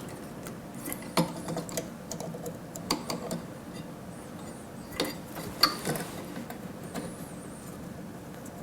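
Scattered small clicks and taps of wire connectors and fingers against plastic and metal parts as the wires are worked back onto the STATIM sterilizer's replacement water pump, with a few sharper clicks about a second, three seconds and five seconds in.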